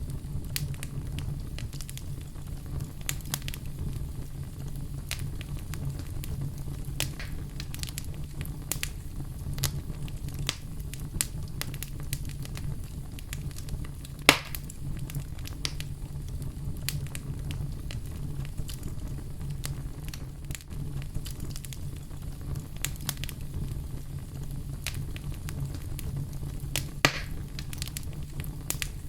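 Wood fire burning in a fireplace: a steady low rumble of flames with irregular sharp crackles and pops, two louder pops about halfway through and near the end.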